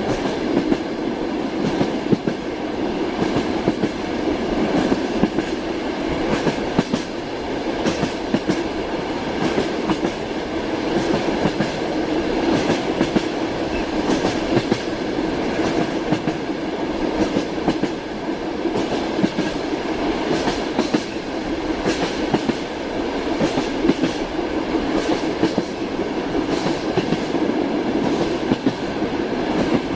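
Moving passenger train heard from inside a carriage: a steady rolling rumble with the clickety-clack of the wheels over the rail joints recurring throughout.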